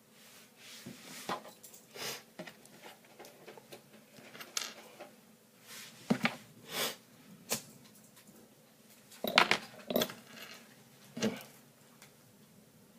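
Irregular clicks, taps and clatters of small hard plastic parts and tools being handled on a work surface. The loudest knocks come a little past the middle.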